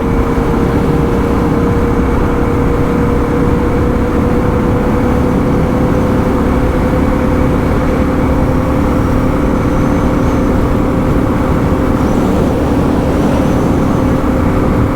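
Suzuki DR650's air-cooled single-cylinder engine running at a steady cruise on a sealed road, its even engine note under loud, constant wind and road noise.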